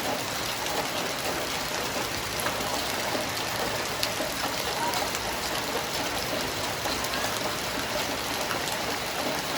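Heavy monsoon rain pouring steadily, an even hiss with scattered drop ticks, mixed with the rush of floodwater running off.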